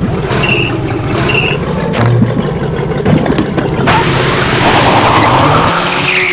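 Car engine sound over music: two short high beeps within the first second and a half, then an engine revving up with a rising pitch and a swelling rush of noise in the second half.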